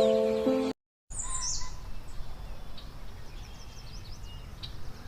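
Background music cuts off under a second in. After a moment of silence, small birds give scattered short, high chirps over a faint outdoor hiss.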